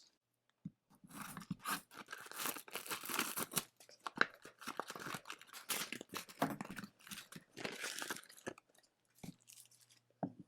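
Packaging on a box of hockey card packs being torn open and handled, with irregular tearing and crinkling that stops about two seconds before the end, followed by a few light clicks.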